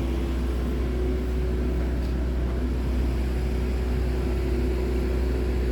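Scania R tractor unit's diesel engine idling steadily, a constant low hum with no change in revs.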